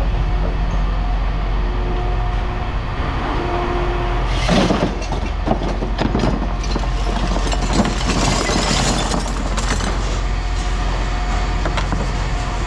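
Scrap copper clattering and knocking as it is tipped out of a bag, with a rustle near the end, over a steady low machinery drone.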